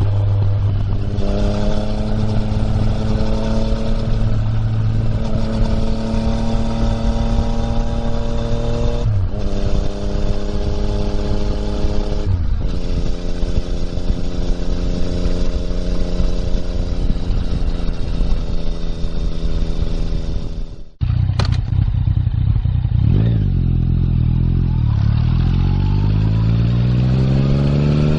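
2020 Yamaha MT-09's 847 cc inline-three running through an Akrapovič exhaust while riding, with wind noise. It holds a steady pitch, dips briefly twice, cuts out for an instant past the middle, then climbs steadily as the bike accelerates near the end.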